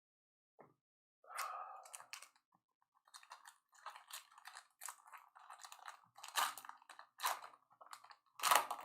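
Trading cards and their plastic packaging being handled: irregular crinkling and clicking that starts about a second in and grows busier toward the end.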